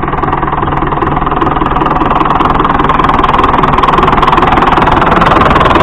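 Fordson Super Major's four-cylinder diesel engine running steadily close by, with a rough, pulsing exhaust note that grows gradually louder.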